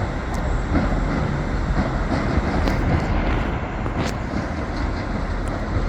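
Railway station ambience: a steady rumble of trains at the platforms, with a couple of sharp clicks, one about half a second in and one about four seconds in.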